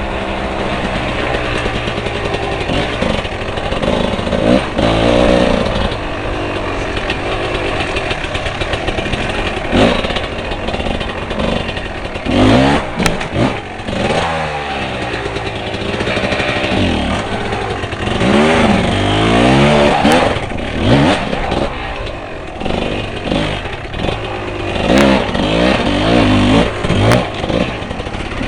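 Motorcycle engine revving hard again and again, its pitch repeatedly climbing and dropping, with the busiest revving about halfway through.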